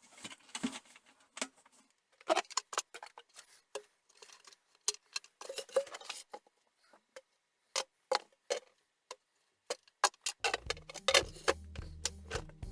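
Irregular sharp clicks, taps and light clinks of small hard objects being handled, with pauses between them. Background music comes back in about ten seconds in.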